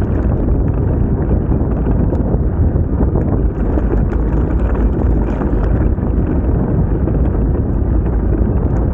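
Wind buffeting the microphone: a loud, steady low rumble that holds without a break.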